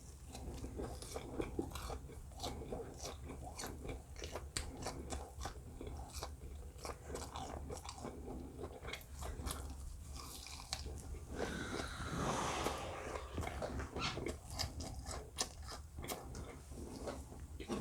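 A person eating, miked up close: chewing and biting, with many short clicks of mouth and food. About twelve seconds in there is a longer noisy rush.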